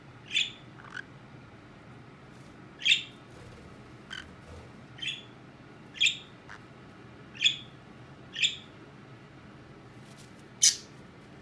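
Pet bird giving about half a dozen short, sharp, high calls, one to two and a half seconds apart, the loudest near the end.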